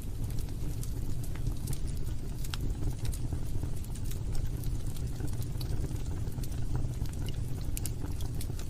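Log fire burning in a fireplace: a steady low rumble of flames with scattered sharp crackles and pops from the burning wood.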